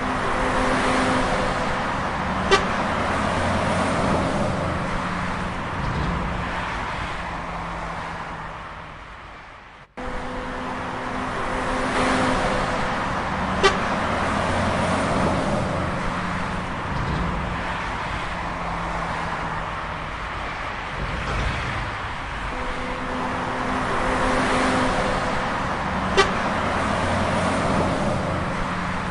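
A truck's engine running, with short steady horn toots and a sharp click. The same stretch of sound repeats three times, cut off abruptly about ten seconds in.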